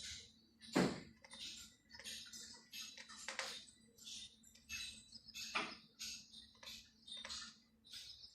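A small bird making quick short chirps, two or three a second, with three louder sharp taps about a second, three and a half and five and a half seconds in, as if it were pecking at a mirror.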